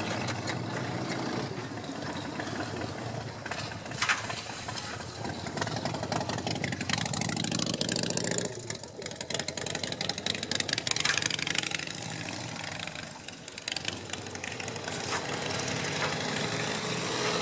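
Avonside steam locomotive working while shunting, with a steady low running sound and two longer stretches of hissing steam partway through. There is a sharp knock about four seconds in.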